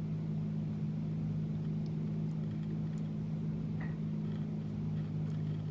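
Steady low mechanical hum, with a faint short sound about four seconds in.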